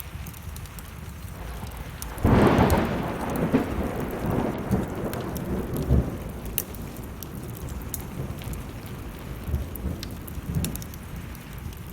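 A clap of thunder breaks suddenly about two seconds in and rumbles away over the next few seconds, over steady rain with scattered small crackles.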